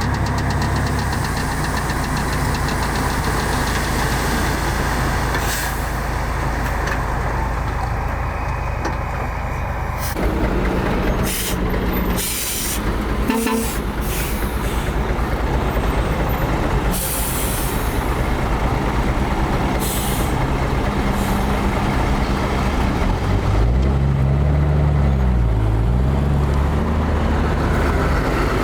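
Heavy diesel earthmoving machinery running steadily, with several short bursts of hiss partway through. Near the end the engine revs up and down a few times.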